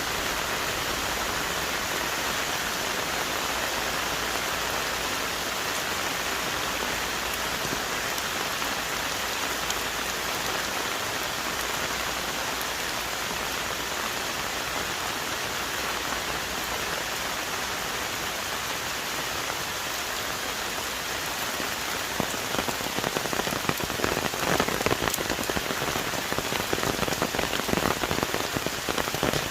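Heavy tropical rain falling on rainforest trees, a steady hiss of rain. In the last several seconds it grows louder and more uneven, with heavier drops pattering close by.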